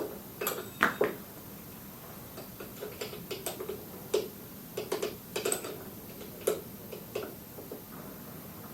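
Irregular light metallic clicks and taps of hand tools and a small bolt being handled and screwed back into a moped's front fork leg, the loudest in the first second.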